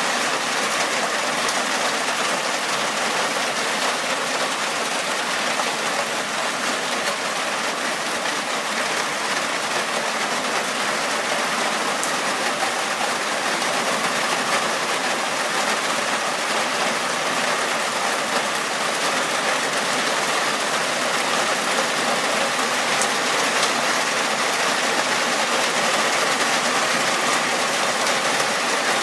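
Steady rain falling, a loud, even hiss that does not let up.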